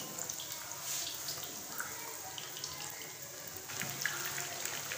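Whole spice-coated chicken roasts deep-frying in hot oil in a kadhai: a steady sizzle with many small crackling pops, growing busier about three-quarters of the way through.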